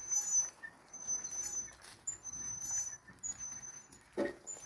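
Small birds calling with high, thin chirps, repeated about once a second. There is a short lower sound near the end.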